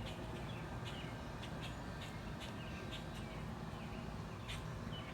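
Birds chirping in short, sharp calls, scattered irregularly, over a steady low outdoor rumble.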